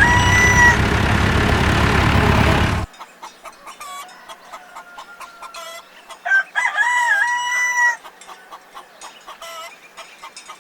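Rooster crowing twice: once at the very start and again about six seconds in. The first crow runs into a loud noisy stretch that cuts off abruptly about three seconds in, and quieter clucking lies between the two crows.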